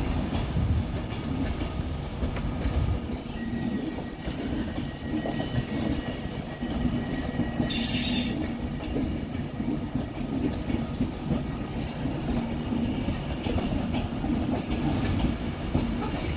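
Class 390 Pendolino electric train pulling out of the platform, a steady rumble of wheels on the rails, with a brief high-pitched wheel squeal about eight seconds in.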